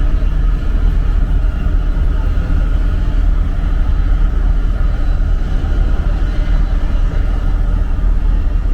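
Steady, loud low rumble of a moving vehicle, unchanging throughout.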